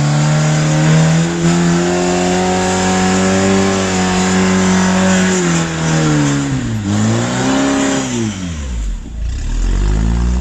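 Rock-crawling buggy engine revving under load: it is held at high revs for about five seconds, then drops, surges briefly, falls to a low rumble and starts climbing again near the end.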